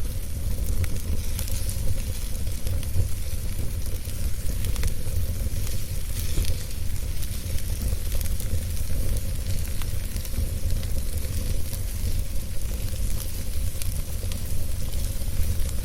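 Wood fire burning in a fireplace, with a steady low rumble, a hissing sizzle and many small scattered crackles and pops.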